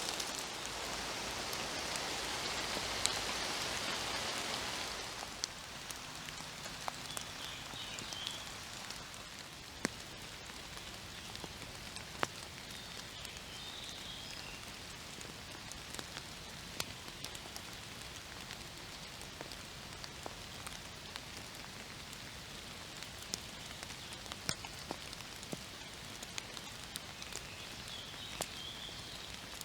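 Gentle rain in woodland, with water dripping from the tree canopy in many irregular separate ticks over a steady soft patter. The patter is louder for the first few seconds, then eases off.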